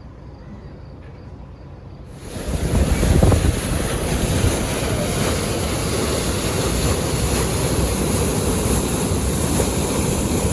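Wind buffeting the microphone with rushing water, a heavy low rumble that starts abruptly about two seconds in and then holds steady.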